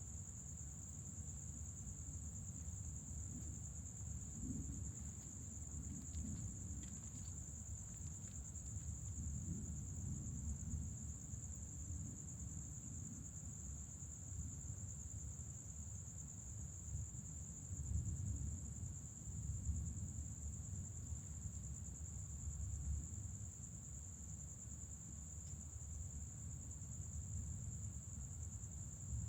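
Crickets trilling in a steady, unbroken high-pitched chorus, over a low, uneven rumble that swells and fades, loudest around the middle.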